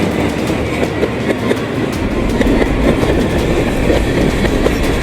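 Freight train rolling through a level crossing, wheels clacking over the rail joints over a steady rumble. The deep rumble grows stronger about two seconds in.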